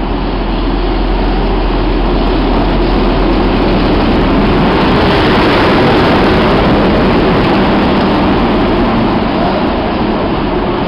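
Class 90 electric locomotive and its Royal Mail train passing close by along a station platform. The steady noise of the train swells to its loudest about halfway through as the locomotive goes past, then carries on as the carriages follow.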